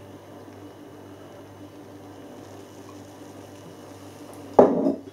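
Steady low room hum with a faint buzz, and one short, louder breathy sound near the end.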